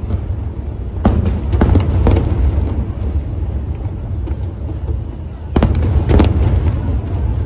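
Aerial firework shells bursting: three sharp bangs about half a second apart just after a second in, then three more near the end, over a constant low rumble.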